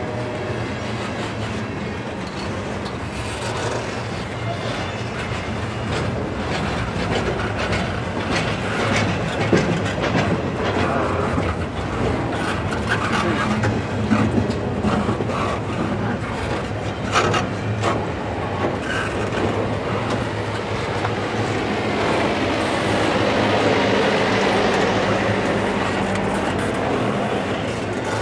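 Double-stack intermodal freight cars rolling slowly past: a steady rumble of steel wheels on rail, broken by frequent clacks and knocks from the wheels and car ends.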